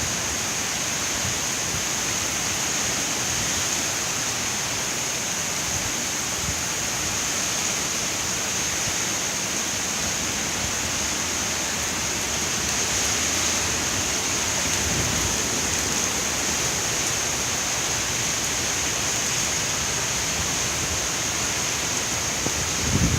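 Heavy rain and strong wind of a hurricane: a steady hiss, with gusts rumbling low on the microphone now and then and a few low bumps near the end. The wind is reckoned at about 40 miles an hour.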